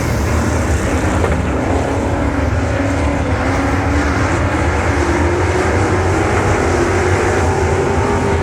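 Dirt-track race truck engines running loudly at speed, with an engine note that rises slowly in pitch over the last few seconds as it accelerates.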